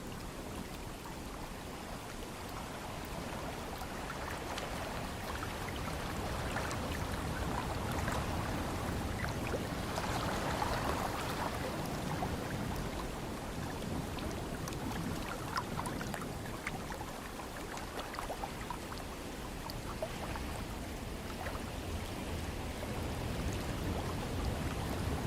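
Ocean waves washing in, a steady rush that swells and eases, loudest about ten seconds in, with scattered small crackles.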